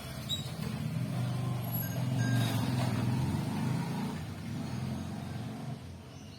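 A vehicle engine running with a low rumble, dropping away near the end.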